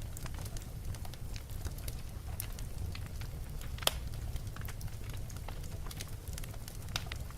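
Fire burning in a fireplace: a steady low rumble of flames with scattered crackles and pops, the sharpest pop about four seconds in.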